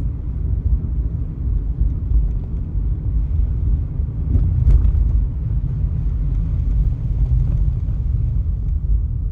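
Steady low road and engine rumble inside a moving car, with one short click about five seconds in.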